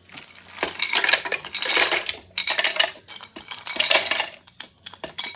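Ice cubes clattering as they are tipped from a ceramic bowl into a plastic blender jar partly filled with cream, in several bursts of clinks and knocks.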